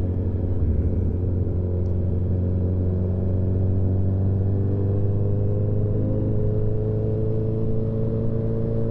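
Motorcycle engine running at low cruising speed, a steady drone whose pitch rises slightly in the last few seconds as the bike picks up a little speed.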